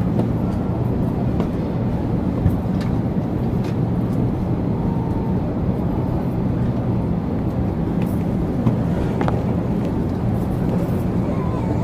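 Steady low rumble of airliner cabin noise, the engines and air conditioning running, with a few faint clicks and knocks.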